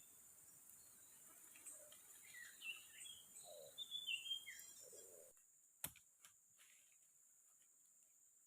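Faint forest ambience: scattered short bird chirps over a steady high insect hum. About five seconds in it cuts off abruptly to near silence, broken by one sharp click.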